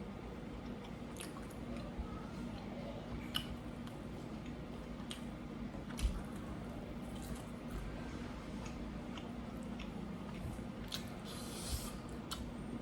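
Close-miked chewing and wet mouth sounds with scattered small clicks, over a steady low hum. A short hissy rustle comes near the end.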